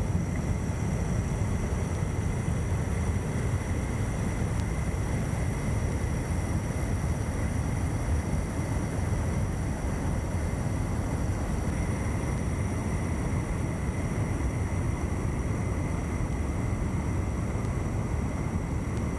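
Steady rush of water pouring over a small waterfall and shallow rapids, a full, even roar weighted toward the low end, with no break or change.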